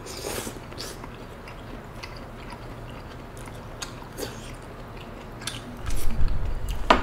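Close-miked chewing and biting of malatang, with scattered small clicks, getting louder about six seconds in.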